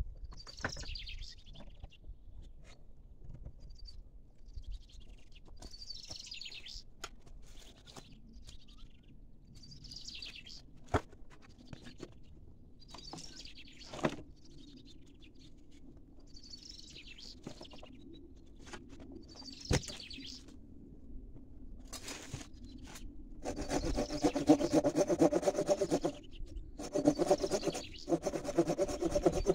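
A small bird calls in short bursts every few seconds, with a few sharp knocks in between. Near the end a tool starts rubbing hard on wood, in two loud spells.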